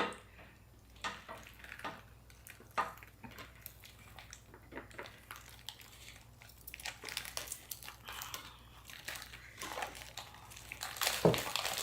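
Close-up chewing and crunching of fresh spring rolls with raw lettuce, bean sprouts and herbs, with scattered soft clicks of dishes or utensils.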